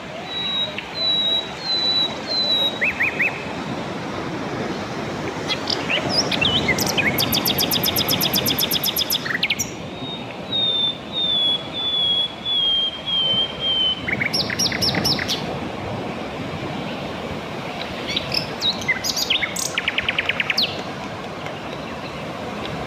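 Sikatan londo flycatcher singing: strings of short whistled notes that step slightly downward in pitch, broken by several fast, rattling trills. A steady low background hiss runs underneath.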